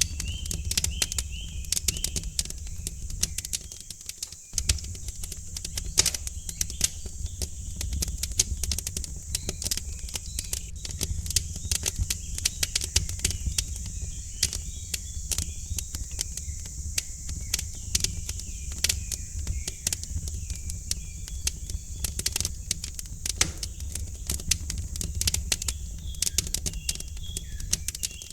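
Wood fire crackling in a fireplace: frequent sharp pops and snaps over a low steady rumble, with small birds chirping in the background.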